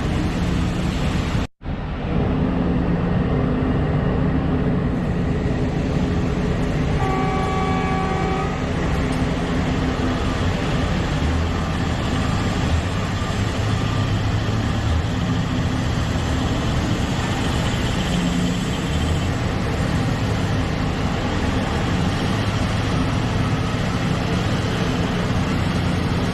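Liebherr excavator's diesel engine running steadily under working load, with hydraulic noise. The sound drops out for an instant about a second and a half in. A short higher-pitched tone sounds about seven seconds in.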